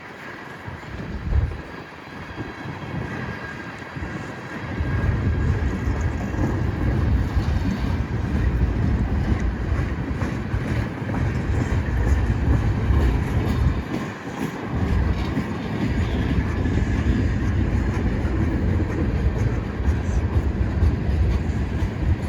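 Freight train cars rolling past on the rails: a steady rumble of wheels that swells about four and a half seconds in and holds, with one sharp knock about a second and a half in.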